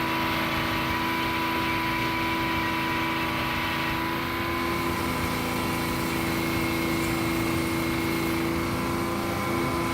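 Sawmill machinery running steadily: a constant engine-like hum with several steady tones held throughout, with no distinct cutting strokes.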